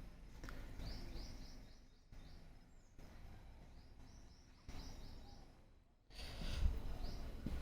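Birds chirping in quick repeated short notes over a low rumble, which grows loudest about six seconds in.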